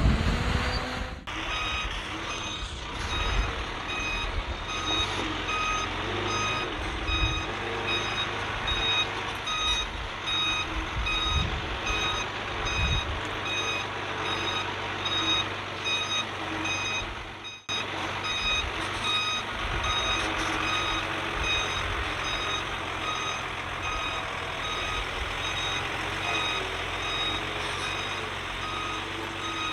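Backup alarm on heavy earthmoving machinery beeping steadily in even, single-pitch beeps, over the low running of a diesel engine, as the machine reverses.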